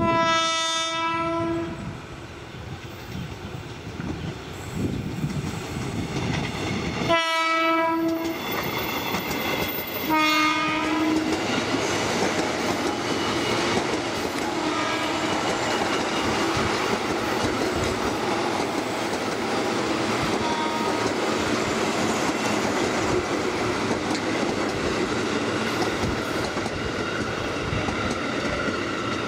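Train horn sounding three times: a blast of about a second and a half, a second one about seven seconds later, and a third about three seconds after that. Then a train passes close by, its wheels clattering over the rails in a steady run.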